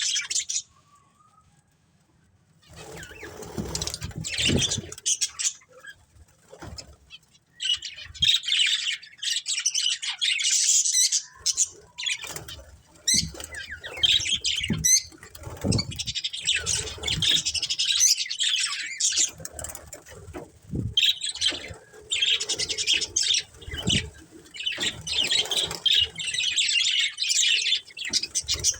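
Budgerigars chirping and chattering in bursts, with wing flapping and low thumps now and then, starting about three seconds in after a near-silent moment.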